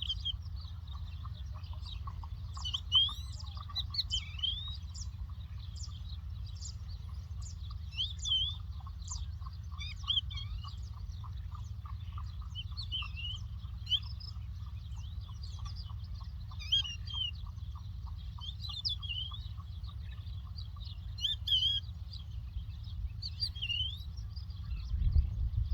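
Lark singing: a long run of quick, high chirps and slurred whistles, rising and falling in pitch, with a faint fast trill lower down and a steady low rumble underneath that grows louder near the end.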